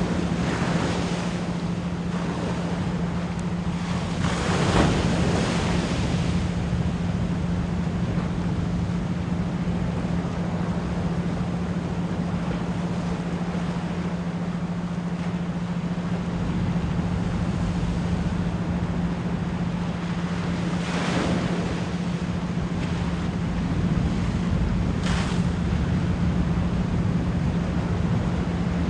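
Ocean waves washing in, with a steady low 174 Hz pure tone held underneath throughout. Louder swells of the surf come about five seconds in and again around twenty-one seconds.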